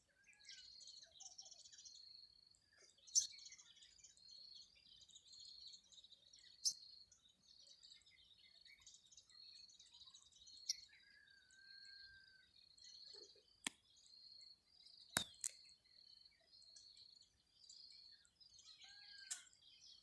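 Faint outdoor wildlife sounds: a high chirp repeated steadily about twice a second, with a few whistled bird calls that bend in pitch. Several sharp clicks break in, the loudest about 15 seconds in.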